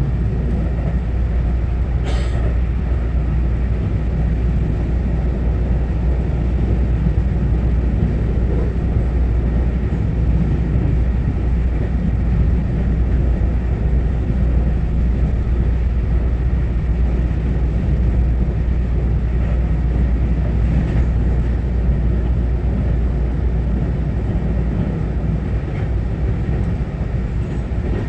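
Taiwan Railway EMU900-series electric commuter train running at line speed, heard inside the passenger car as a steady low rumble of wheels on track. There is a brief click about two seconds in.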